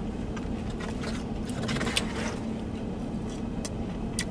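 Steady hum of a car idling, heard from inside the cabin, with a man chewing a bite of crispy thin-crust pizza and a few faint crunches about two seconds in.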